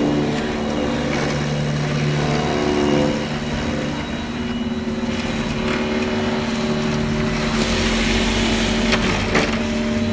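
Cordless battery-powered snow blower running, its electric motor giving a steady hum. A rushing noise swells about eight seconds in.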